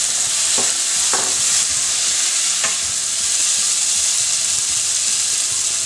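Diced tomatoes, fried onions and spices sizzling in hot oil in a frying pan, with a steady hiss. A wooden spatula stirs them, knocking and scraping against the pan a few times.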